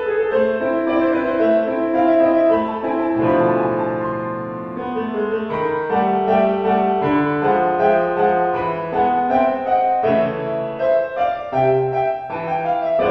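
Piano music in a classical style.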